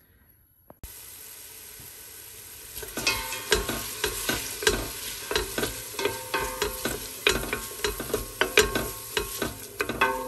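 Chopped onion sizzling in olive oil in a large pot, a steady hiss that starts about a second in. From about three seconds in, a utensil stirs it, with repeated clicks and scrapes against the pot.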